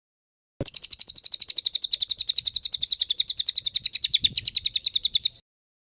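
A songbird's rapid trill of about thirteen short, high notes a second, held for nearly five seconds. It starts about half a second in and cuts off abruptly. This is the fast machine-gun 'tembakan' phrase.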